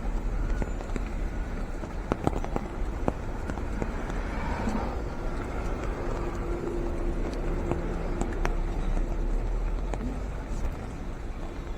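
City street ambience: steady traffic noise with indistinct voices and scattered clicks and knocks.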